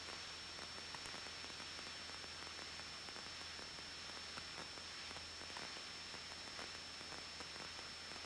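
Faint steady hiss of a light aircraft's intercom audio feed with no one talking, carrying a thin high whine, a low hum and a few tiny clicks.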